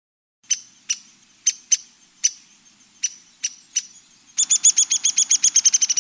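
A songbird calling: about eight sharp, high single chips spaced irregularly, then a fast, high-pitched trill of about a dozen notes a second that runs from about four and a half seconds in.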